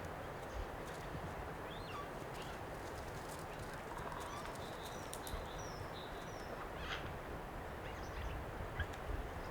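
Eurasian jay singing its soft, varied song: scattered short chirps, clicks and brief sliding whistles, over a steady rush of wind noise.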